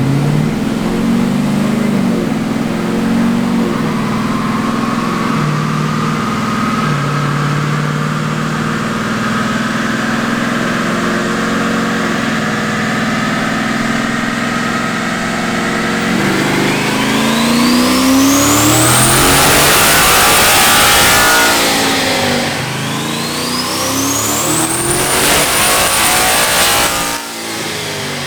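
Single-turbo Ford F-150's 5.0 Coyote V8 making a pull on a chassis dyno: it runs steadily at part throttle with a slowly rising whine for about sixteen seconds, then revs hard at full throttle with a turbo whine climbing to a very high pitch. It drops back briefly, climbs again, and cuts off sharply near the end.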